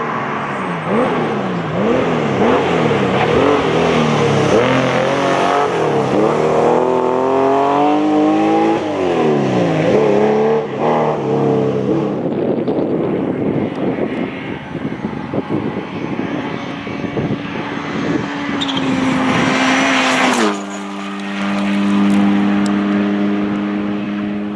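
Rally car engine at full throttle, its revs climbing and dropping sharply over and over through gear changes as it passes at speed. About twenty seconds in, a steady, even drone takes over.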